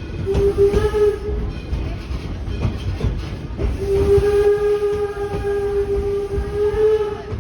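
Steam whistle of the D&LN No. 7 4-4-0 steam locomotive blowing two blasts, a short one near the start and a long one from about halfway to near the end, over the low rumble and clicking of the moving train.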